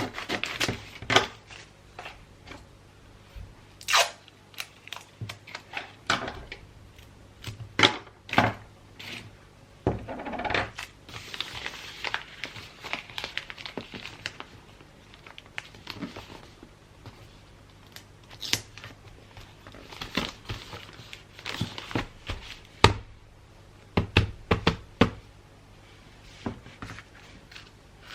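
Wrapping paper crinkling, rustling and being torn during hand gift-wrapping, with irregular sharp taps and clicks in between.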